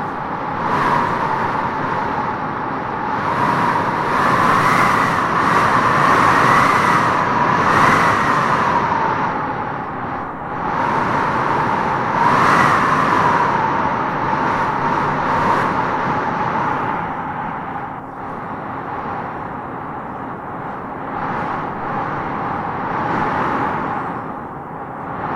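Howling wind gusting through trees: a steady rush with a wavering whistle on top that swells and fades with each gust, strongest a few seconds in and again about halfway through.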